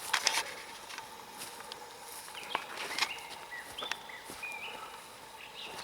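Campfire crackling, with a cluster of sharp snaps at the start and scattered pops after. From about two and a half seconds in, thin high whistling tones hold and jump in pitch.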